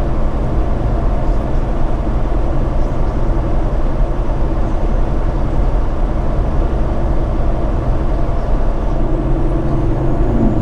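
Inside the cab of a semi truck: the diesel engine runs at a steady cruise, mixed with road and tyre noise.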